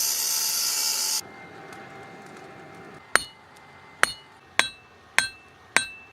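A loud hiss cuts off about a second in, then a hammer strikes steel five times, each blow ringing briefly: rebar being forged into a sword.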